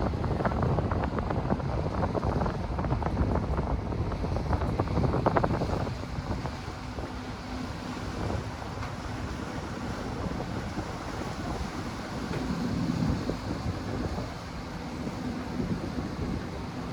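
Wind buffeting the microphone over the steady low drone of a car ferry's engine. The wind gusts are strongest for the first six seconds, then ease, leaving the ferry's hum with splashing water beneath it.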